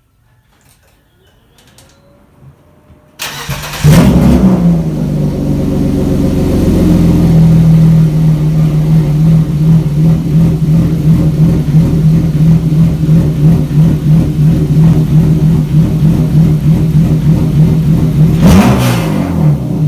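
BMW 525i inline-six with no exhaust at all, from open manifold to air, started up about three seconds in and idling loud and raw. Near the end it revs up briefly and drops back down.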